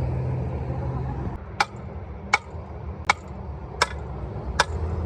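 Steady hammer strikes, about one every three-quarters of a second, five in a row. A low engine rumble underlies the first second and a half, then drops away.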